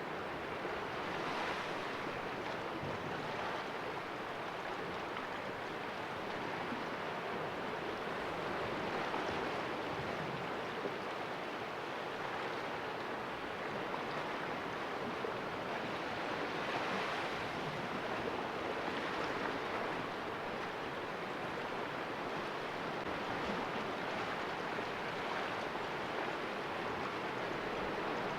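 Sea waves washing and splashing against rocks in a small cove: a steady wash that swells every several seconds as waves break.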